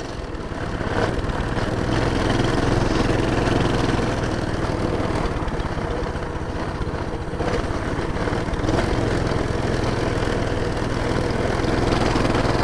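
Small four-stroke engine of a pull-start Coleman minibike running under way. It picks up over the first couple of seconds, then runs steadily.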